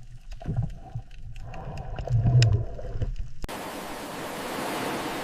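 Low underwater rumbling and gurgling with scattered clicks, which cuts off abruptly about three and a half seconds in to a steady hiss of ocean surf.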